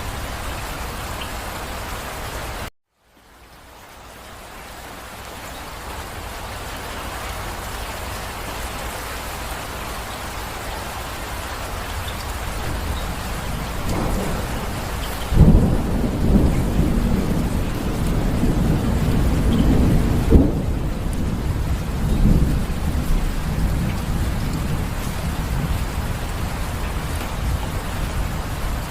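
Steady rainfall that cuts out for a moment about three seconds in and fades back up. About halfway through, a long low rumble of thunder rolls for several seconds, with a sharper peak near its end, over the rain.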